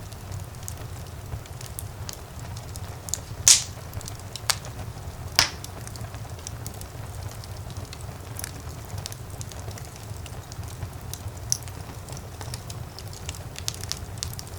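Fire in a fireplace crackling over a steady low rumble, with scattered small snaps. A sharp, loud pop comes about three and a half seconds in, and two more follow within the next two seconds.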